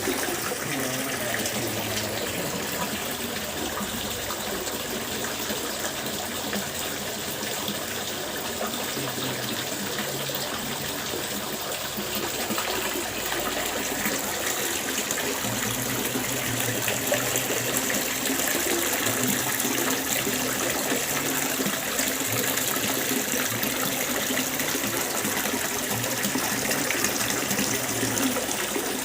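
Water fountain running, a steady splashing rush of falling water.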